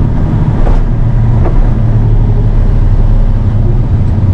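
Steady low drone of a vehicle's engine and road noise heard from inside the cab while driving.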